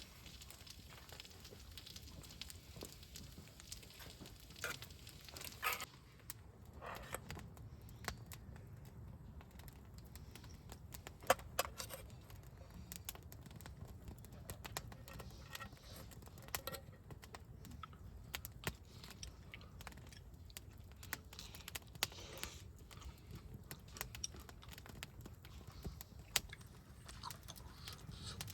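Firewood burning in a fire pit, crackling faintly with scattered sharp pops and small clicks.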